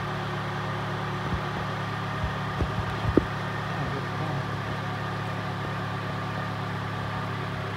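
A 2006 Honda Accord's engine idling steadily while its exhaust still leaks at a joint, with a few faint knocks in the first few seconds.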